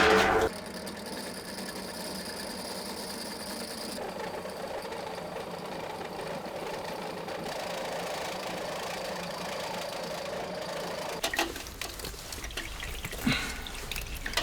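A small machine's motor running steadily, then stopping about eleven seconds in, followed by a few knocks and clicks.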